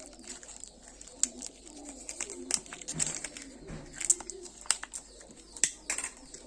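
Crinkling and sharp clicks from plastic wrappers and capsules as Kinder Joy eggs are opened, loudest about four and five and a half seconds in. Behind them, a bird coos low on and off.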